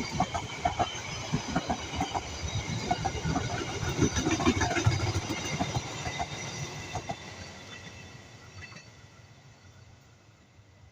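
Train wheels clattering over the rails with a low rumble, then fading away steadily over the last few seconds as the train recedes.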